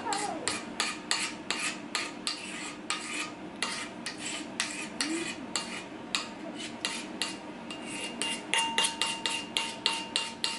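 Utensil scraping the last cake batter out of a mixing bowl, in quick repeated strokes several times a second.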